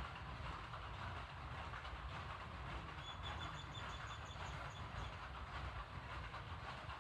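Water pouring steadily onto plant leaves, a continuous splashing rush with a low rumble under it. From about three to five seconds in, a bird sings a rapid high trill of short repeated notes.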